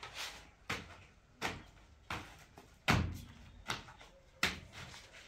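A series of about seven sharp knocks and clacks, roughly one every 0.7 seconds, the loudest about three seconds in: cut pieces of flexible stone sheet being handled and set down.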